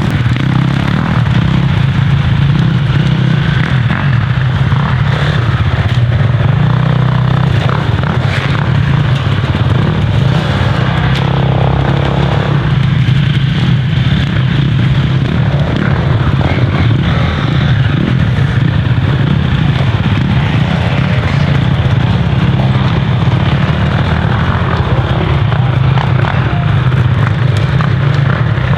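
Dirt bike engines running steadily, with no clear rise or fall in revs.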